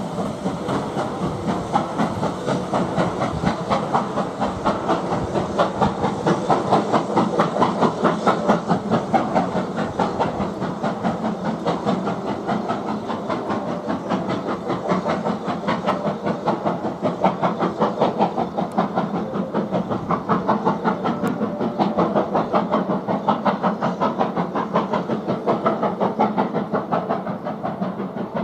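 Steam locomotive working a train, with a steady, rapid rhythmic beat throughout.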